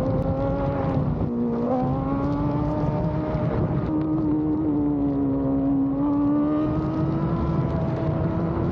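Motorcycle engine running under way, its pitch dipping slightly about a second in and again around the middle, then climbing gradually, over low wind and road noise.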